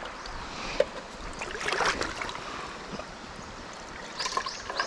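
Mountain stream water running and trickling, with water splashing and sloshing twice: about two seconds in and again near the end.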